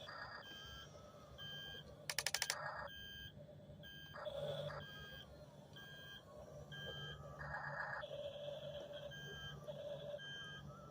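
Electronic beeping from a Double E remote-control track-type tractor toy's sound effects: short reversing-alarm-style beeps repeating a little faster than once a second, with a burst of rapid clicking about two seconds in.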